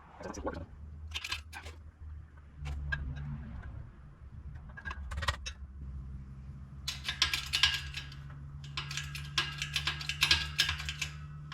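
Scattered light clicks and taps of a rubber seal and metal cylinder parts being handled and worked into a hydraulic cylinder gland, turning into a quick run of clicks in the last few seconds, over a steady low hum.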